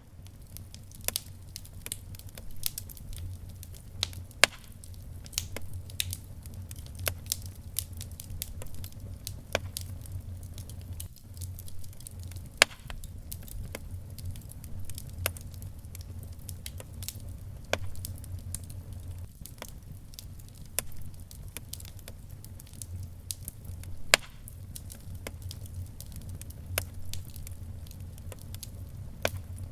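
Wood fire crackling, with irregular sharp pops, a few of them loud, over a steady low hum.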